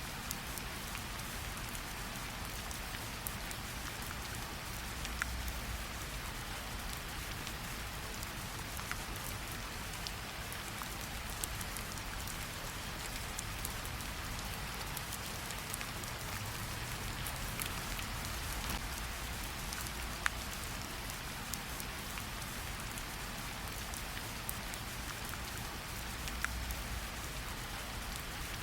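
Steady rainfall, an even patter with scattered sharper ticks of individual drops landing.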